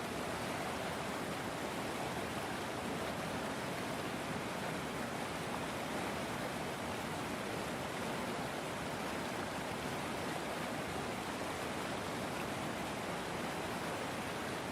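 River water flowing: a steady, even rush with no changes.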